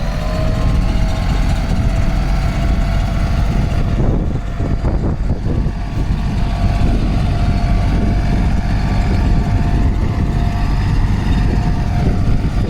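Tractor engine running steadily at a set working speed, a low rumble with a faint steady whine over it.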